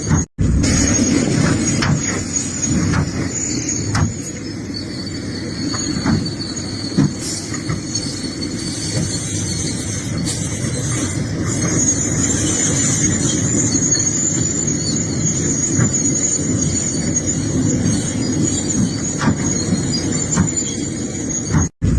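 Excavator working: a steady low machinery rumble with a thin, high metallic squeal running over it and a few short knocks. The sound drops out for an instant just after the start and again near the end.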